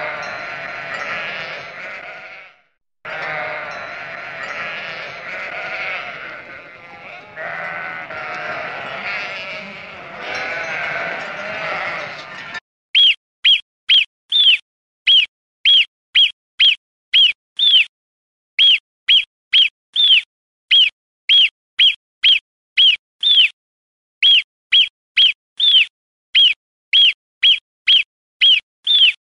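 A sheep bleating repeatedly, with a short break about three seconds in. About twelve seconds in it changes to marmot whistles: short shrill calls, each a single slightly falling note, repeated evenly about twice a second.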